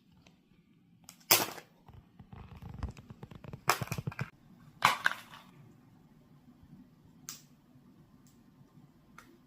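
A parrot's beak knocking against a hard stone it is trying to crack like a nut: three sharp knocks within the first five seconds with a quick rattle of small clicks between them, then a lighter knock later on.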